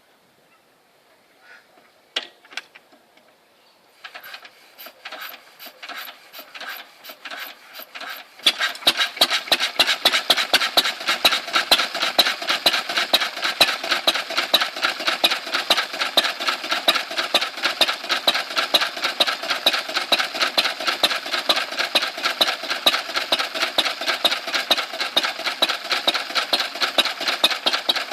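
Lister B stationary engine being turned over, the strokes quickening for a few seconds, then catching about eight seconds in and running with a steady rapid beat.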